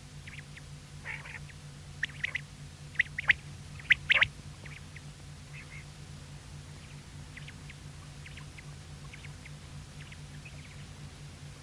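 Quail calling: short, sharp notes in quick groups of two or three. The calls are loudest between about two and four and a half seconds in, then go on more faintly, over a steady low hum.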